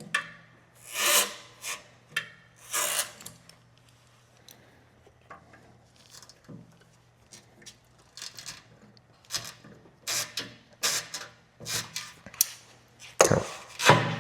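Hands and tools working a stuck part loose during fuel-tank removal on a motorcycle: two scraping rubs early on, then a run of small clicks and taps, and two louder scrapes near the end as the part gives.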